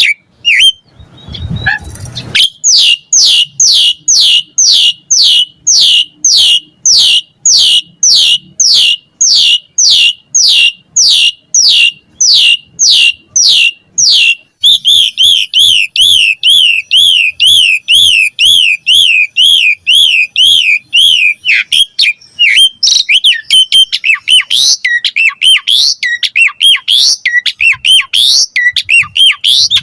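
Pied starling (jalak suren) singing: a long run of repeated falling whistles, about two a second, then a fast rising-and-falling warble, then a stretch of varied chirps and whistles.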